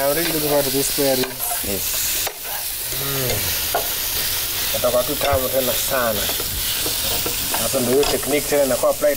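Barbecue sauce sizzling as it fries in a pan while being stirred.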